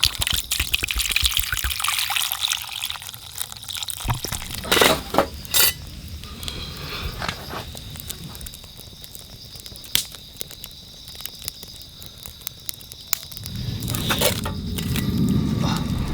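Cooking sounds: liquid being poured and handled, with scattered clicks and a few sharp knocks of utensils, about five seconds in. Near the end a low rumbling noise rises.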